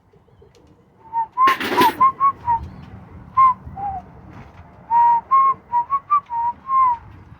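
A person whistling a run of short, clear notes, some bending slightly up or down in pitch. There is a brief rustling burst about one and a half seconds in.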